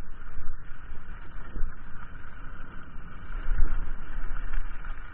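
Wind buffeting the camera's microphone on a moving mountain bike, with steady rumble from the tyres on the trail and a few low thumps as the bike goes over bumps.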